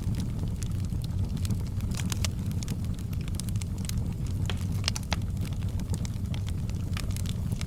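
Wood fire burning in a fireplace: a steady low rumble of flames with frequent sharp, irregular crackles and pops from the burning firewood.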